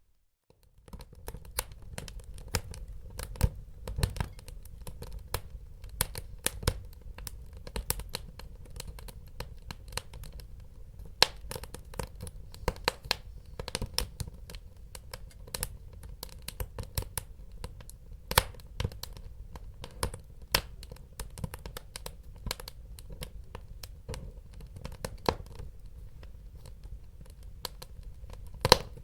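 Wood fire crackling: frequent sharp, irregular pops and snaps over a steady low rush of burning. It comes in after a short gap of near silence just under a second in.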